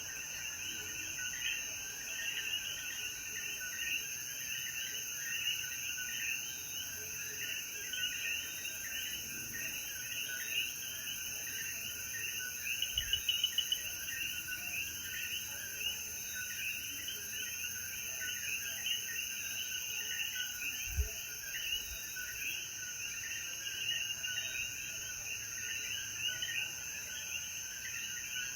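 Chorus of Puerto Rican coquí frogs calling in the evening after rain: many overlapping short chirping calls, over a steady high insect drone. A quick run of clicks comes a little before halfway, and a single low thump about three-quarters through.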